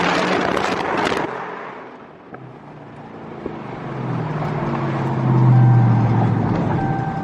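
A 2018 Dodge Charger R/T's 5.7-litre HEMI V8 exhaust, running through Super 10 mufflers with the resonator deleted. A loud rush of exhaust dies away about a second in, then the engine note builds again and is loudest a little past the middle.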